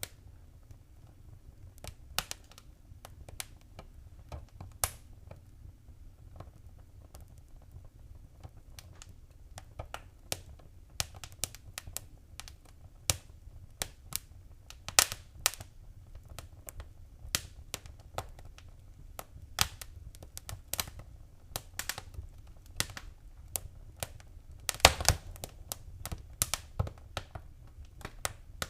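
Wood fire crackling, with irregular sharp pops over a low, steady rumble of flames and a quick burst of several pops near the end.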